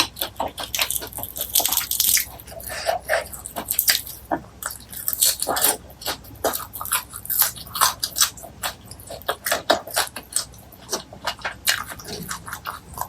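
Close-miked eating sounds: a person biting and chewing food with rapid, irregular wet mouth clicks and smacks.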